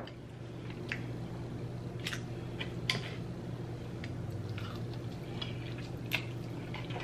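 Soft chewing and mouth clicks from eating a chicken wing, a few faint clicks spread through, over a steady low hum.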